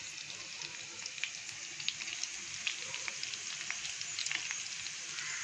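Stuffed bitter gourds (karela) shallow-frying in hot oil in a pan: a steady sizzle with many small crackles and pops.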